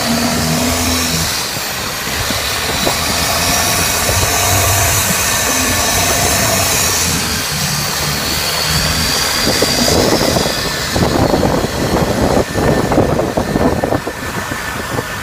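Boat engine running steadily under a dense rushing noise, with rougher, louder noise for a few seconds near the end.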